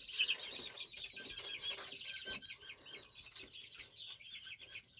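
Birds chirping: rapid, short, high-pitched chirps, a few each second, fading slightly toward the end.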